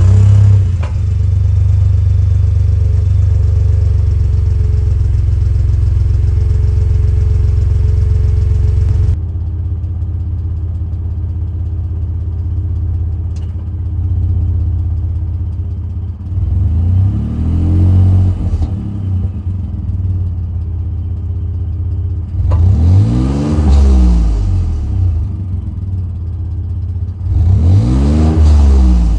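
Ford F-150's 3.5 L EcoBoost twin-turbo V6 starting up through an aftermarket Valvetronic valved muffler. It flares on start and holds a fast idle, then settles to a lower idle about nine seconds in. Near the end the engine is revved three times, each rev rising and falling in pitch.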